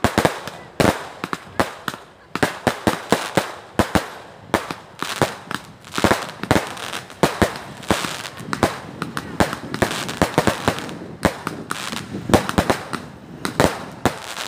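Aerial fireworks going off in quick succession: many sharp bangs and crackling pops, several a second, overlapping with no let-up.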